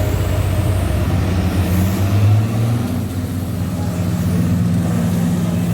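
Diesel engine of a Kawasaki K12II road roller running steadily, its note shifting to a steadier, slightly higher hum about halfway through.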